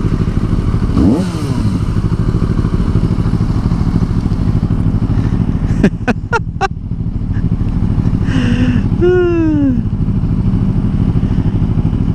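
Motorcycle engine running steadily at low speed, with a few sharp clicks about six seconds in and a short falling pitched sound about nine seconds in.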